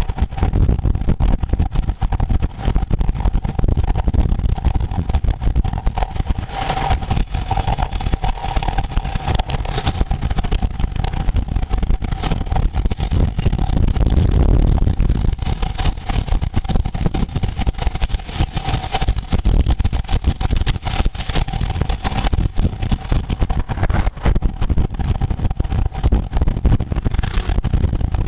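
Continuous wind and road noise from riding at race speed in a bicycle road race: a heavy, buffeting low rumble with a steady hum running through it.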